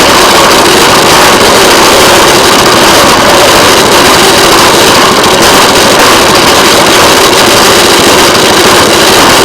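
Railway motorcar (track speeder) running along the rails: a loud, steady drone of its small engine and running gear that holds even throughout.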